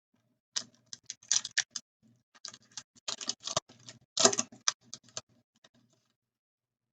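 Hockey trading cards being handled and flipped through, a rapid run of small clicks and rustles of card stock that stops about a second before the end.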